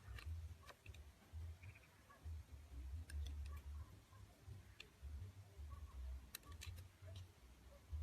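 Knife cutting into a bar of soap: faint, scattered sharp clicks and crackles, some in quick clusters, over a low handling rumble.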